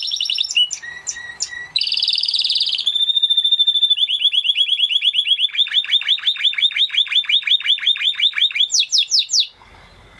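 Canary singing a run of fast trills and short rolls, a held clear note about three seconds in, then a long trill of repeated notes at about eight a second. It closes with a few quick sweeping notes and stops abruptly shortly before the end.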